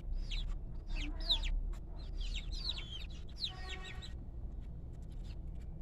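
A flock of young chickens cheeping and clucking: a dense run of short, high, falling peeps for about the first four seconds, thinning out toward the end.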